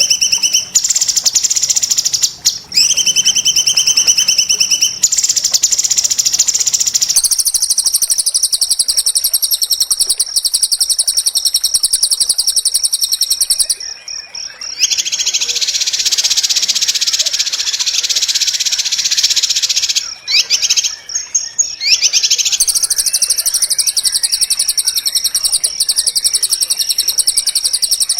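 White-rumped shama song as a dense tutor recording: long, very rapid, harsh trills high in pitch, one run after another with only two short breaks.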